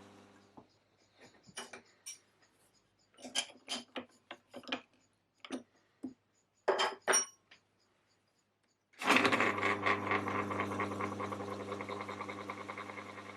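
The milling machine's motor stops, then a series of sharp metallic clinks and taps. About nine seconds in, the motor starts again abruptly and runs with a steady hum, loud at first and easing slightly.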